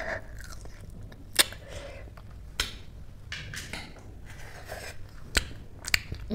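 A person biting and chewing crunchy food, with about five sharp crunches spread through the chewing.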